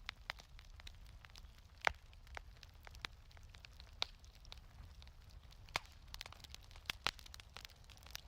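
Wood fire in a fireplace crackling, with irregular sharp pops over a low steady rumble. The loudest pops come about two seconds in and again about seven seconds in.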